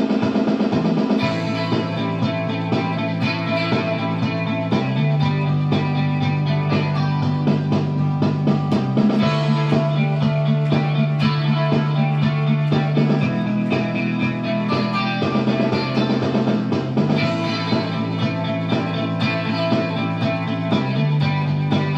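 Electric guitar played live over a rock backing track with drums and bass. The bass holds long notes that step to a new pitch every few seconds.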